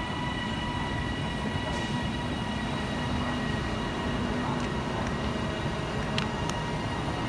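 Passenger train at a station platform: a steady rumble with a high, even whine made of several steady tones.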